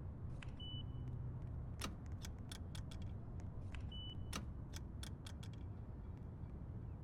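Subway car running, a steady low rumble with a cluster of sharp clicks in the middle and two short high beeps, one near the start and one about four seconds in.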